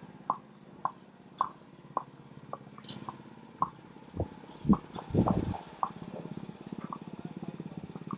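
Horse's hooves clopping on a hard road at a walk, a short clop about twice a second, with a few low thumps about halfway through. From about six seconds in, a steady engine hum grows louder.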